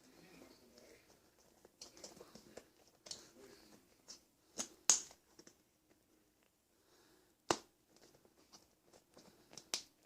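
Rubber RC crawler tire being worked by hand onto a short-course wheel, a tight fit: quiet scuffing and rubbing, with a few sharp clicks, two close together about five seconds in and another about seven and a half seconds in.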